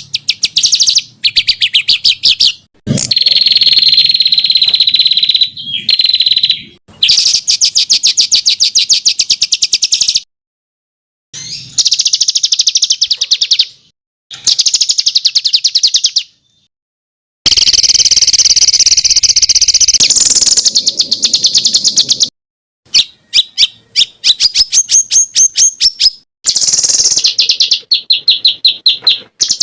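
Songbird song from a masteran training recording: fast, high trills and rapid rattling runs of notes in short phrases. The phrases break off abruptly, with a few brief silent gaps, as in an edited track.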